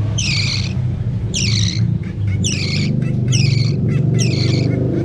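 Budgerigar chick giving repeated raspy begging calls, about one a second, over a steady low hum.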